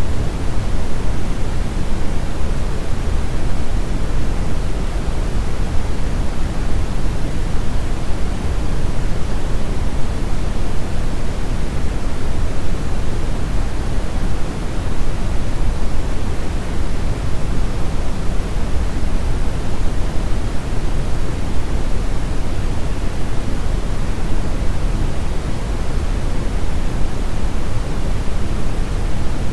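Steady brown noise: a continuous deep, even rumbling hiss, strongest in the bass, with no changes or events.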